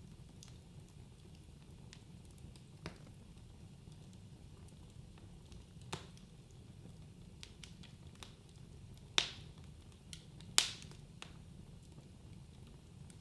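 Wood fire crackling in a fireplace: scattered small pops and snaps over a steady low rumble of flame, with two louder pops a little over a second apart after the middle.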